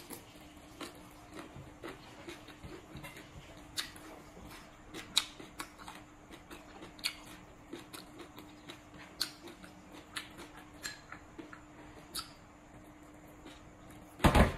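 Close-miked eating of spicy green papaya salad: irregular sharp crunches and mouth clicks from chewing, over a faint steady hum. A much louder thump comes just before the end.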